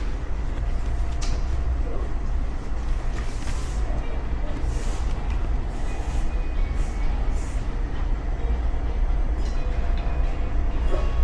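Steady low rumble of a moving vehicle heard from inside, with a few brief hissing swells over it.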